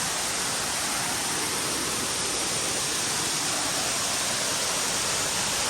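A waterfall's steady, even rush as it drops over rock ledges into pools.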